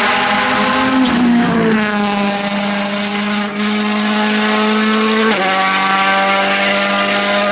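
2019 Ford Fiesta WRC's turbocharged 1.6-litre four-cylinder engine held at steady high revs, dropping a step in pitch twice.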